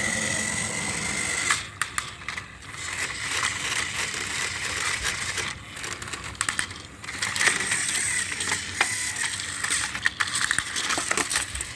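Motorized toy train engines running against each other: a steady high motor whine with gear clatter and many sharp clicks.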